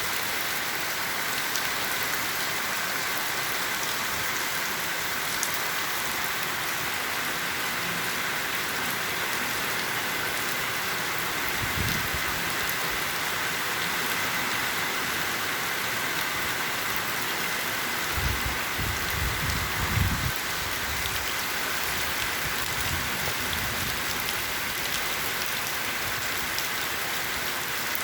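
Heavy rain falling steadily in a downpour, an even hiss, with a few low thumps about twelve seconds in and again around two-thirds of the way through.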